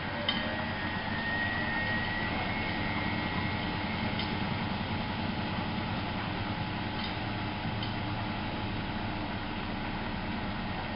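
Miele Novo Super W933 washing machine running with a steady mechanical hum, with a few light clicks.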